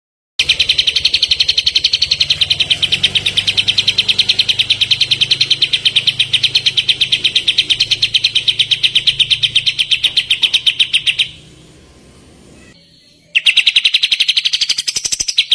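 Kapas tembak bird's rapid rattling song: a long, even run of identical high chips, about eight a second. It breaks off after about eleven seconds and starts again about two seconds later.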